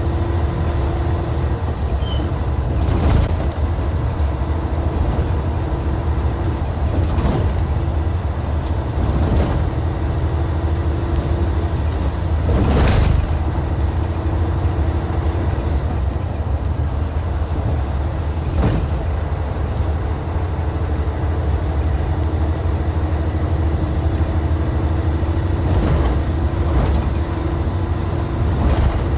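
Hyundai D6CC Powertec 380 inline-six diesel of a Hyundai Universe Comfort coach running steadily with a deep, even rumble and a steady tone above it. Short noisy bursts cut across it now and then, the longest about halfway through.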